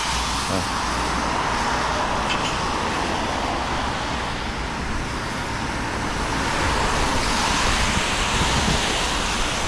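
Steady hiss of falling rain mixed with road traffic noise, even and unbroken throughout.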